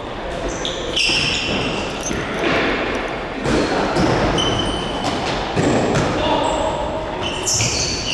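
Mini-football play in a sports hall: the ball bouncing and thudding on the floor and many short high squeaks from players' shoes on the court, with distant voices, all echoing in a large hall.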